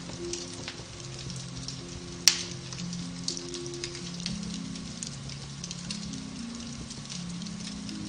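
Beech-wood fire crackling in a fireplace, a steady scatter of small snaps with one sharp, louder pop about two seconds in, over soft, slow piano-based music.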